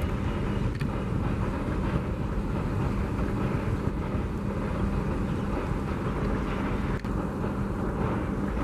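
Steady rumble of a passenger train's coaches rolling across a steel girder bridge.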